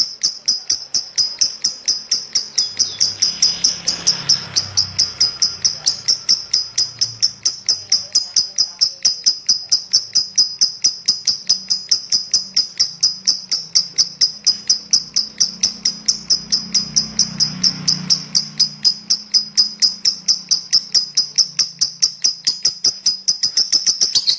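Lovebird singing a long, unbroken ngekek: a rapid, shrill, high-pitched chatter of chirps at about five a second.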